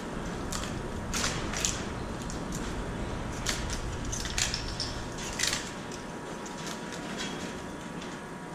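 Irregular scrapes and crinkling clicks as baling wire is worked around a compressed bale of PET plastic bottles to tie it off.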